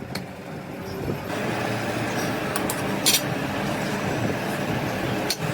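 An engine running steadily, growing louder over the first second and a half, with a few sharp metallic clicks over it.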